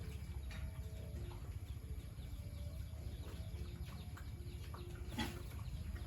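Farmyard animal calls: short, faint calls repeating over a steady low rumble, with one louder, sharper call about five seconds in.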